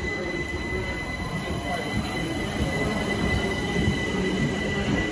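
Southern Class 377 Electrostar electric multiple unit moving along the platform: a steady rumble of wheels on rail with a steady high-pitched squeal over it.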